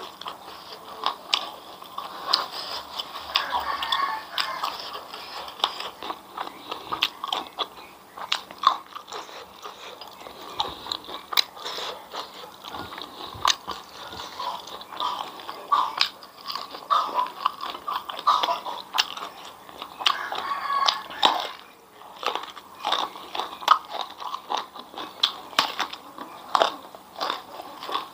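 Close-miked eating: chewing with many crisp crunches, the sound of crunchy fried grasshoppers and other food being bitten and chewed by mouth.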